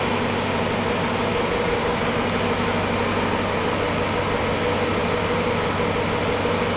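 1953 Willys CJ3A's 134 cubic inch L-head flathead four-cylinder engine idling steadily while still cold.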